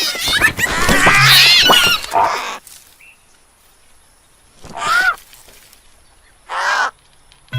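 Animal calls: a loud run of rapidly wavering high calls for the first two and a half seconds, then two separate short calls about a second and a half apart.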